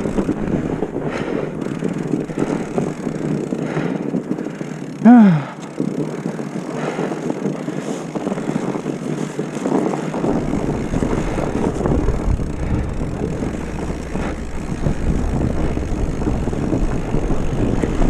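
Steady rush of sliding downhill on snow, with wind buffeting the microphone and a deeper rumble from about halfway. About five seconds in there is one brief, loud, pitched call that rises and falls.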